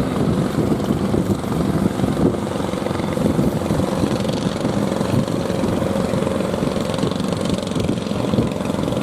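Motor fishing boat's engine running steadily, a dense continuous rumble with a faint steady hum through it.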